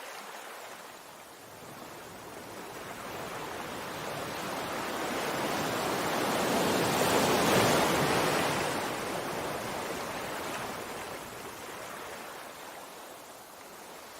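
Sea waves: a rush of surf that builds slowly to a peak about halfway through and then fades again as the wave breaks and washes back.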